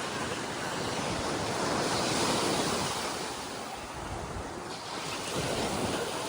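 Ocean surf washing onto a sandy beach, the wash swelling about two seconds in and easing off again, with wind buffeting the microphone.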